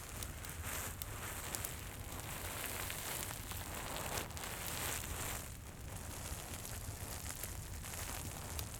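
A crinkly Santa item crackling as it is handled and squeezed: dense, fine crackling with swells every second or so. A steady fireplace crackle sits underneath.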